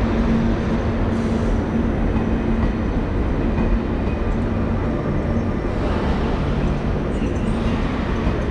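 ÖBB Railjet train running along the line: a steady rolling rumble with a low hum that drops in pitch about four seconds in.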